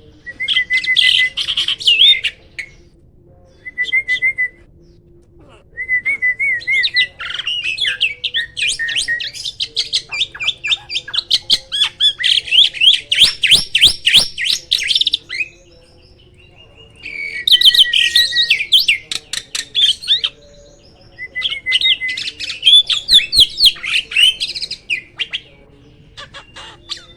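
A jalak (starling) singing in bursts of fast, chattering and whistled notes. Each phrase lasts a few seconds and the phrases are separated by short pauses; the longest runs through the middle.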